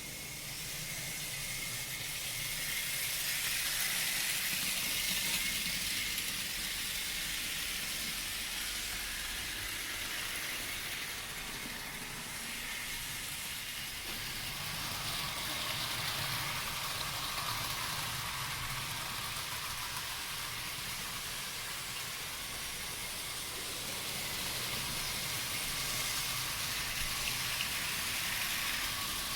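Model train running: a Trix Warship model locomotive hauling a rake of freight wagons, its wheels and motor making a steady hissing rattle on the track. It swells louder and fades again three times.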